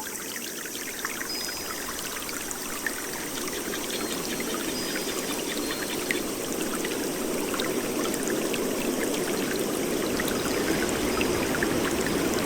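Rain and running-water ambience: a steady rush of water full of small drop ticks, growing gradually louder.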